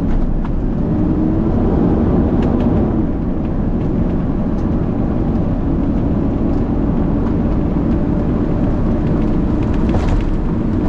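Peterbilt garbage truck heard from inside the cab while driving: a steady diesel engine drone over a low road rumble.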